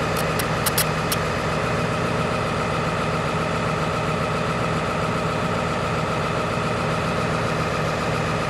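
2002 Ford F-250's 7.3 L Power Stroke V8 turbodiesel idling steadily while warming up after a cold start. A few sharp clicks come in the first second.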